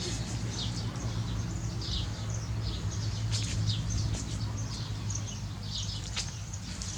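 Small birds chirping: many short, high chirps scattered throughout, over a steady low hum.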